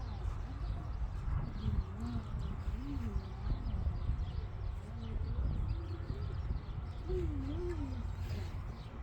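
Puppies whimpering, short soft whines that rise and fall in pitch, over a steady low rumble.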